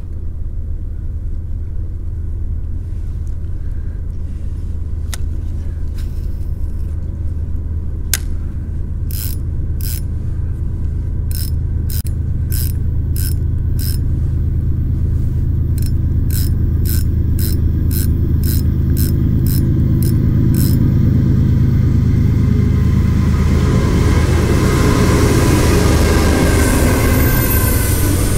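Freight train on the railroad bridge rumbling steadily and growing louder, with wheel squeal and screech coming in over the last few seconds. Through the middle there is a run of sharp, evenly spaced clicks, about one every half second.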